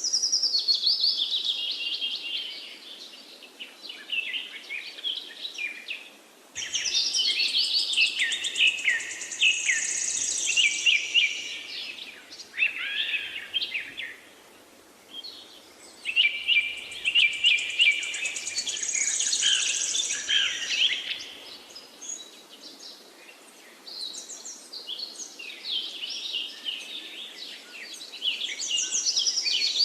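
Songbirds singing in long bursts of quick high chirps and trills, with short lulls between phrases, over a faint steady background hiss.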